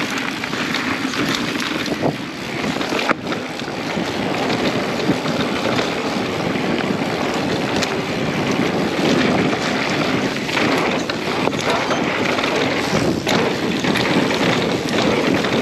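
Wind rushing over the microphone, mixed with a mountain bike's tyres rolling fast over a dirt trail. A sharp knock comes about three seconds in.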